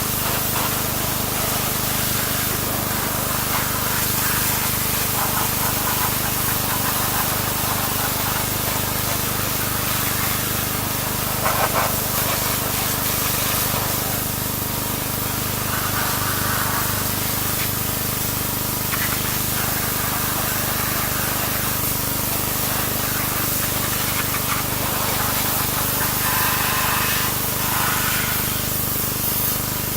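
Pressure washer running and spraying: a steady hiss of water jet over a constant motor hum, the spray changing briefly now and then.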